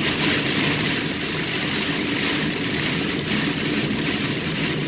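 Heavy rain hitting a car's roof and windshield as a steady hiss, over the low hum of the engine and road noise, heard from inside the moving car.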